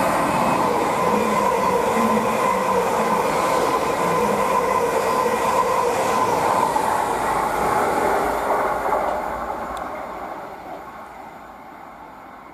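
Greater Anglia electric multiple unit passing through the station at speed: steady wheel-on-rail running noise with a steady tone over it, fading away over the last few seconds as the train recedes.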